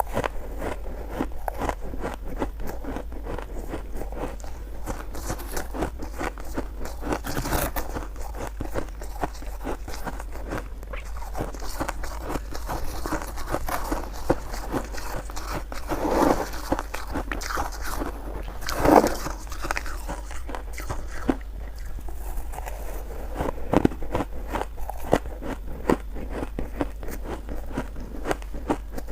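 Close-up crunching and chewing of shaved ice: a steady stream of small crackly bites, with a few louder crunches about halfway through and again near the end.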